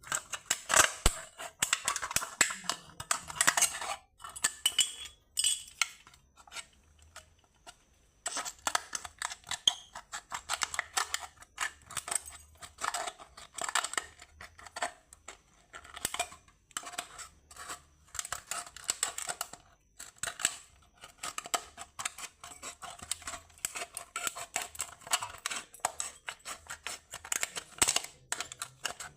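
Scissors cutting into a thin aluminium beer can: runs of quick snips with short pauses.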